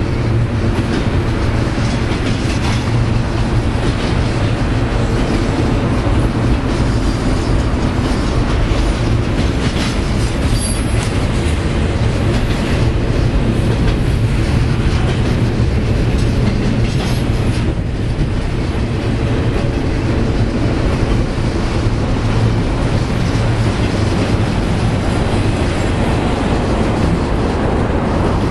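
BNSF double-stack container train's cars rolling past, steel wheels clattering on the rails with some wheel squeal, over a steady low rumble.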